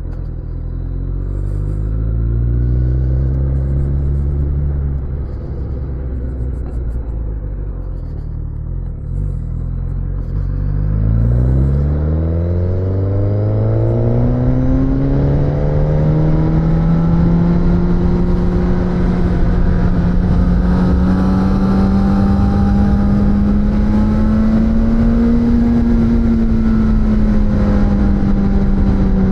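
Suzuki GSX-S1000's inline-four engine on the move: it runs low and eases off, then revs up hard about a third of the way in and holds a steady high-rev note, rising slightly and falling back near the end.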